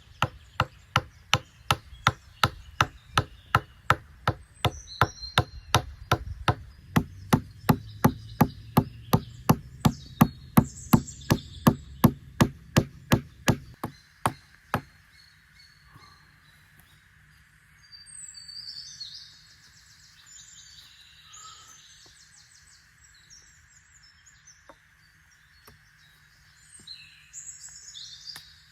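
A fast, even series of sharp strikes, about three a second, that stops about fifteen seconds in. Birds chirp afterwards.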